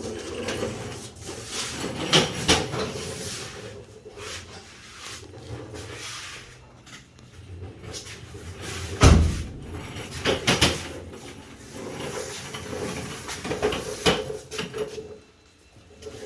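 Scattered knocks and clatter of things being handled, with one loud, low thump about nine seconds in.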